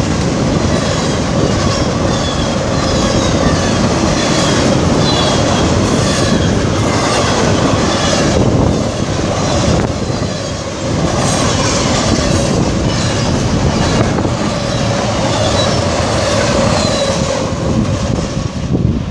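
A long train's cars rolling past close by: a steady loud roar of wheels on rail with clickety-clack over the joints and wavering high-pitched wheel squeal.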